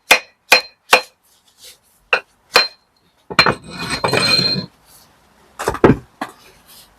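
Steel bricklaying trowel clinking against brick and mortar: five sharp ringing taps, then a scraping about halfway through, then two heavier knocks near the end.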